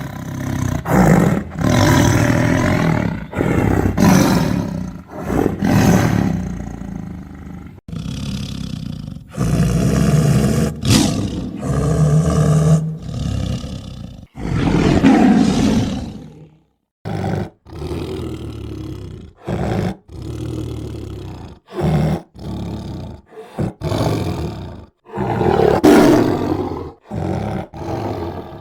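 Tiger roaring and growling in a string of separate rough calls, spliced together with abrupt cuts and short gaps. A long roar comes about halfway through and another loud one near the end.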